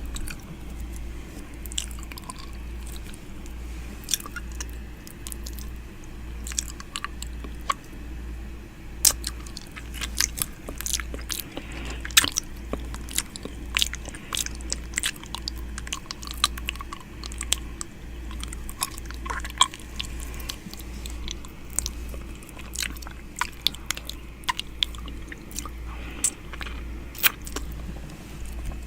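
ASMR 'ear eating' mouth sounds made close to the microphone: irregular wet clicks, smacks and nibbling, several a second, over a low, evenly pulsing hum.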